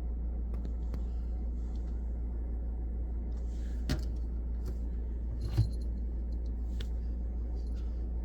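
A few light metallic clicks and taps, the loudest a little past halfway, as a cat shifts about inside a washing machine drum, over a steady low hum.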